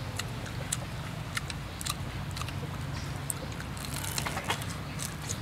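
Scattered crisp clicks and crunches of people biting into and chewing fried spring rolls, with a denser crunch about four seconds in, over a steady low hum.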